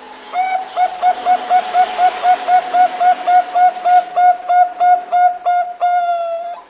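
Zebra dove (perkutut bangkok) calling: a quick run of about twenty short, even cooing notes at one pitch, ending in one longer drawn-out note.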